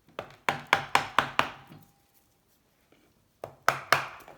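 Hammer tapping wooden wedges driven between the aluminium crankcase halves of a Honda C70 engine to split them. It strikes about six quick times, pauses, then strikes three or four more times near the end.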